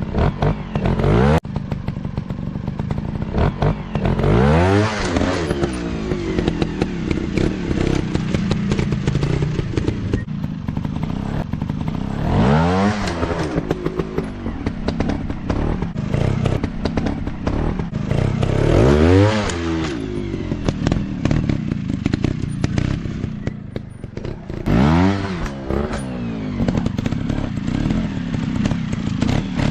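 Dirt bike engines running and revving on off-road terrain, the pitch climbing in repeated bursts every several seconds between stretches of lower revs, with scattered knocks and clatter throughout.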